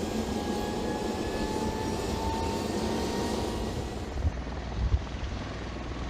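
V-22 Osprey tiltrotor's rotors and turbine engines running: a steady rotor noise with a faint whine that rises slowly in the first few seconds. The sound changes a little over four seconds in, with a few low thuds.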